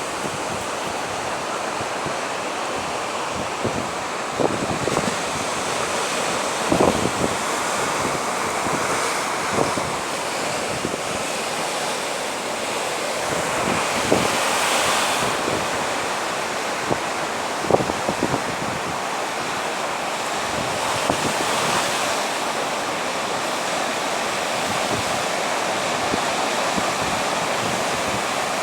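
Sea waves washing ashore in a steady, slowly swelling rush, with wind buffeting the microphone and a few short thumps.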